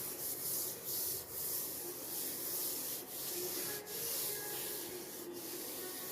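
Continuous scrubbing: a scrubber or sponge rubbing back and forth over a hard kitchen surface, a steady hissing rasp broken by a few brief pauses, as grease stains are scrubbed off.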